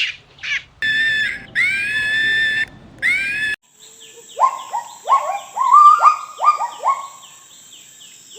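Monkeys calling: shrill, high-pitched squeals for the first few seconds. After a sudden break, a run of short calls follows, each falling in pitch, about two a second.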